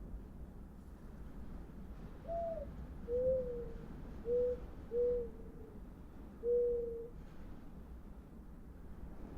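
Five short hoot-like tones, each bending slightly in pitch, come at uneven intervals over a low steady rumble.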